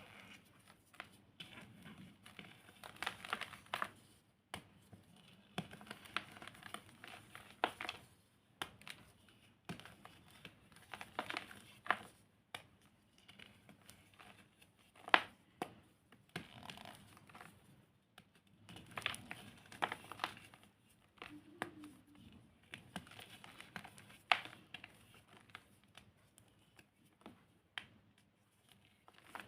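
Dried, reformed cornstarch being crunched: irregular crumbly crunches and crackles, with a sharper snap about halfway through.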